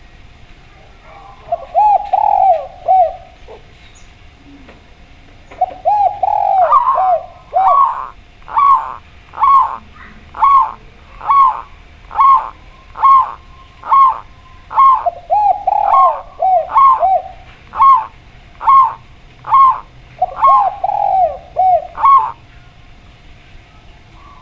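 Doves cooing, a spotted dove and a zebra dove, as the video's title pits them: first a quick run of rolling coos, then a long series of short, evenly spaced coos about one a second, broken by more fast rolling runs.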